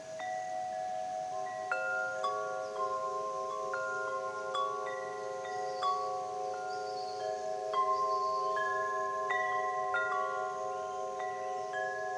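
Wind chimes ringing: irregular strikes at several different pitches, each tone ringing on and overlapping the others, over a few lower tones that keep sounding with a slow wavering pulse.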